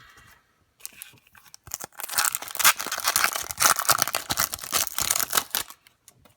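Foil trading-card pack wrapper being torn open and crinkled, a dense crackling run of about three and a half seconds that starts about two seconds in.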